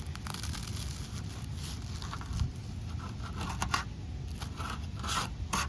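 Hands and utensils garnishing a bowl of soup: a string of brief snips, scrapes and rustles, busier in the second half, over a steady low rumble.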